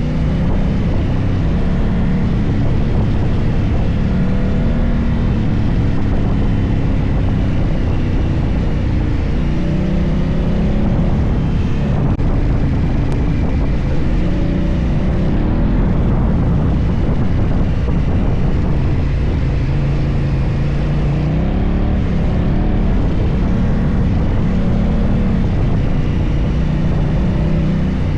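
Honda Africa Twin CRF1000 parallel-twin motorcycle engine under way, its pitch rising and falling again and again as the throttle opens and closes through the gears. A steady low rush of road noise runs underneath.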